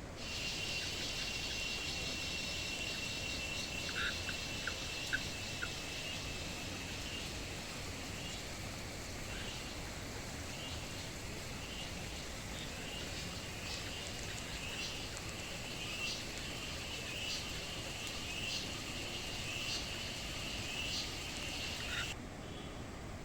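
Forest chorus of small creatures: a steady, shrill, high-pitched chirring with repeated short chirps over it, and a quick run of five lower notes about four seconds in. It cuts off abruptly a second before the end.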